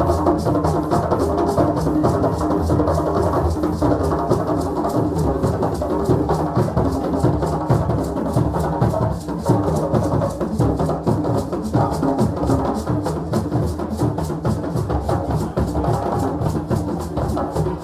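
West African drum ensemble, several drums beaten together in a fast, dense, steady rhythm.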